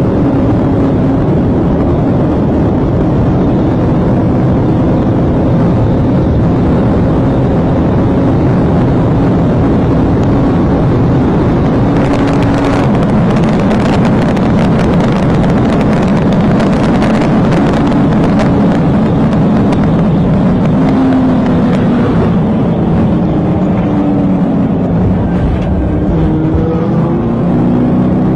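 A vehicle engine running hard at speed under heavy road and wind noise. In the last few seconds its note rises and falls as it speeds up and slows.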